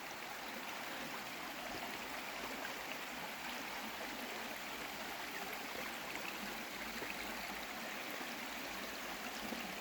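Shallow stream running steadily over rocks, an even rushing and babbling with no change.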